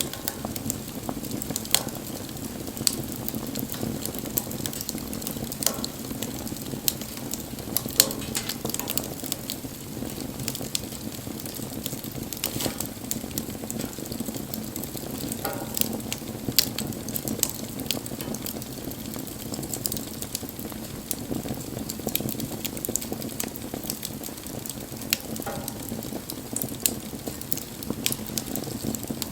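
Wood fire burning, with a steady low rush of flame and irregular sharp crackles and pops from the burning wood.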